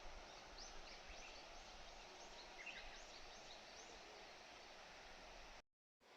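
Quiet outdoor ambience: a steady faint hiss with a run of short, high, faint bird chirps over the first few seconds. The sound cuts out completely for a moment near the end.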